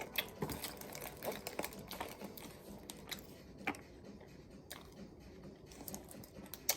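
Scattered faint clicks and light taps at an uneven pace.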